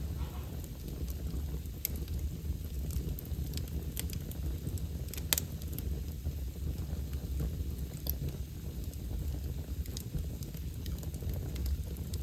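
Wood fire burning in a fireplace: a steady low rumble of flames with irregular sharp crackles and pops, one louder pop about five seconds in.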